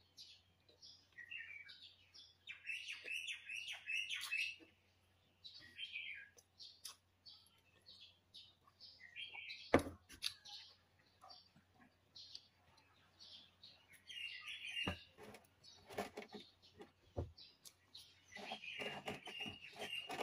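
Short, high chirps repeated in clusters throughout, like small birds calling, with scattered clicks from eating at the table. The loudest sound is a single knock a little before halfway, like a cup being set down.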